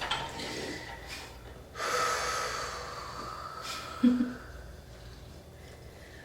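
A person breathing audibly: a long drawn breath lasting about two seconds, then a short voiced sound with a sharp click about four seconds in.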